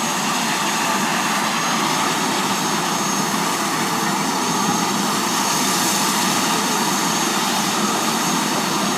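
Turbine helicopter with a ducted (enclosed) tail rotor running steadily close by: even rotor and engine noise with a thin high turbine whine over it.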